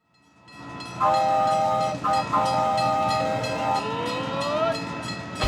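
Train sound effect: a rumble with clickety-clack fades in, then a multi-tone train horn blows twice, followed by a rising whistle.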